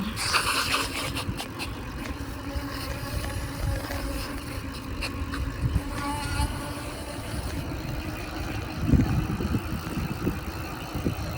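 A bicycle being ridden, with wind rumbling and gusting on the microphone. Tyre and frame rattle and a few clicks come in the first second or so, and a louder gust comes near the end.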